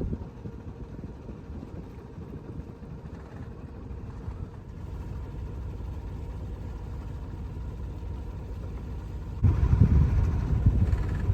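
Sailboat's auxiliary engine running steadily at low speed while motoring. Near the end, gusts of wind buffet the microphone in louder, uneven rumbles.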